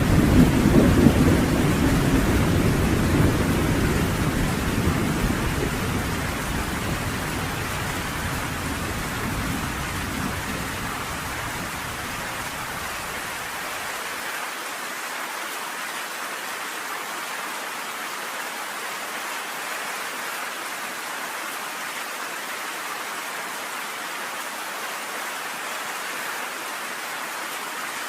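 Rain falling steadily on a cabin porch, with a long roll of thunder at the start that dies away over about twelve seconds, leaving the even hiss of the rain.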